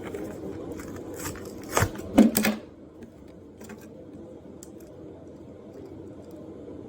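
Hot Wheels blister pack being handled and opened: plastic and cardboard crackling and clicking, with two loud snaps about two seconds in, then only a few light clicks.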